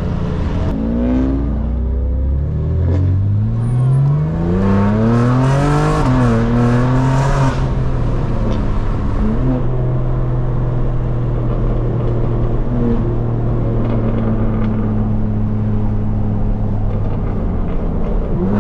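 Straight-piped BMW M4 Competition's twin-turbo inline-six accelerating hard through the gears: the pitch climbs, drops at each upshift and climbs again over the first seven or so seconds, then holds a steady drone for the rest.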